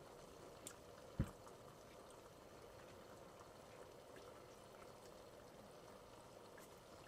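Near silence with a faint steady hiss, broken by a small click and then one sharp knock about a second in.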